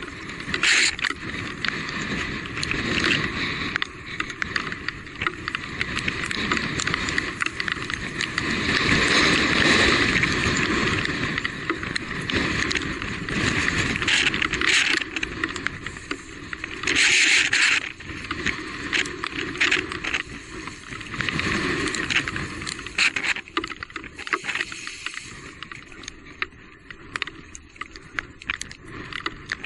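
Electric mountain bike riding over a rough, wet trail: continuous tyre and rolling noise with frequent knocks and rattles, swelling louder twice, around a third of the way in and again a little past halfway.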